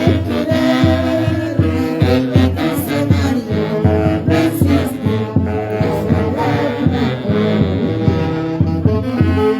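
Live band music: saxophones and brass play a melody over a steady bass and drum beat.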